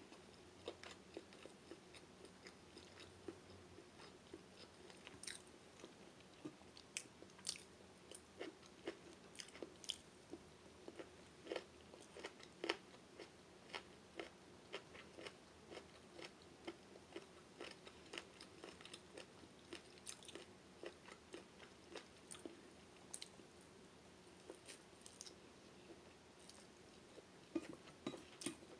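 A person chewing mouthfuls of pancit bihon, stir-fried rice noodles with cabbage and carrots, close to the microphone, with many short, irregular mouth clicks and smacks. The sound is faint overall.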